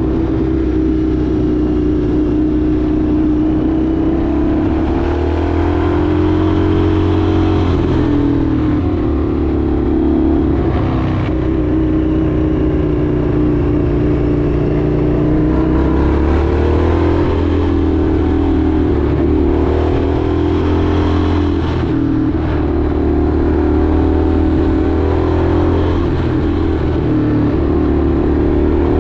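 Indian FTR 1200's V-twin engine running under way, its pitch rising and falling several times with throttle changes.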